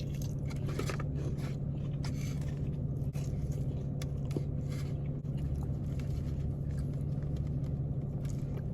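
A person chewing and biting into crispy fried chicken fingers, with scattered crunches and mouth noises, over a steady low hum.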